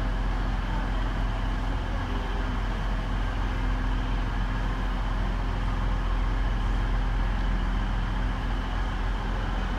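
Steady low drone and hum of a train's engine at a railway platform, holding at an even level.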